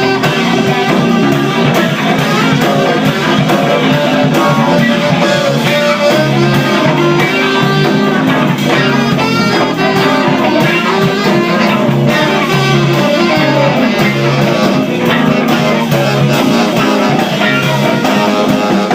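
Live band music: guitar over a repeating bass line with a drum beat, with no singing or rapping.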